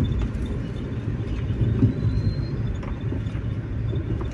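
Car cabin noise while driving: a steady low rumble from the engine and tyres on the road, with a window open.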